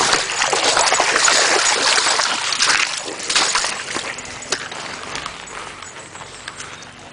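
Splashing and sloshing in shallow river water, as of feet wading through it, loudest for the first three seconds and then fading.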